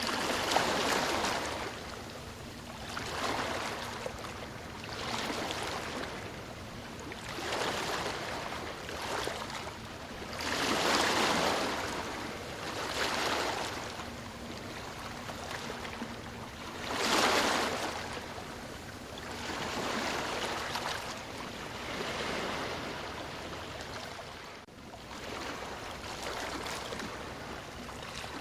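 Ocean waves washing ashore: a hiss of surf that swells and falls away every few seconds, with a few bigger breakers among them.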